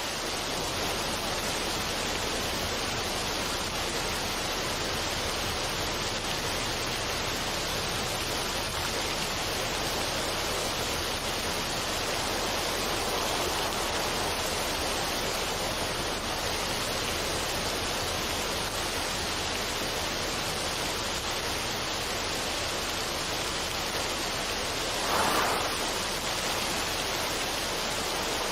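Steady rushing noise of falling water, even throughout, with one brief louder swell near the end.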